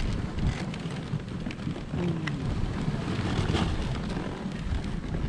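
Dog sled running along a snow trail: a steady rumbling hiss of the runners over snow with scattered knocks and jolts, and wind buffeting the microphone.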